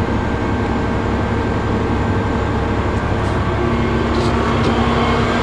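Onboard Bauer breathing-air compressor of a fire truck switched on and running with a steady mechanical hum. A steady low tone joins about two-thirds of the way in as it comes up to speed.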